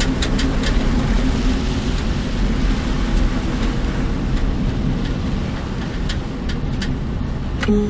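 Car cabin noise while driving in heavy typhoon rain: a steady rush of tyre and rain noise over a low rumble, with scattered sharp ticks. A short tone starts near the end.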